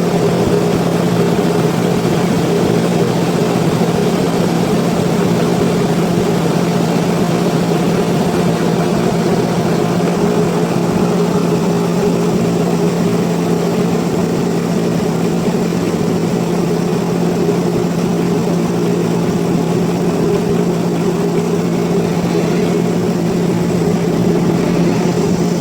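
Sawmill machinery running steadily: a continuous, unchanging engine-like drone with a steady low hum.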